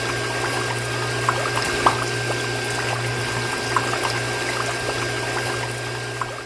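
Small electric water pump motor humming steadily while its water pours and splashes in a stream, with scattered drips, fading out at the end.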